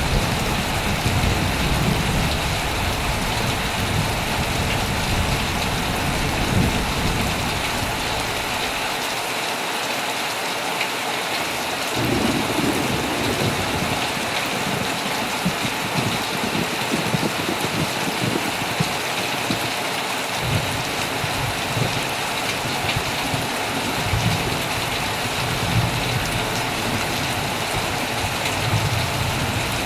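Heavy rain falling steadily on a tent, with low rolling thunder through the first several seconds, briefly again about halfway, and near the end.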